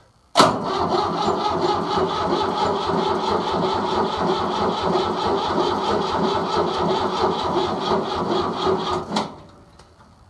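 Yanmar 2310D diesel tractor being cranked on its starter in the cold, with an even beat of about five strokes a second, for about nine seconds. The sound cuts off abruptly near the end.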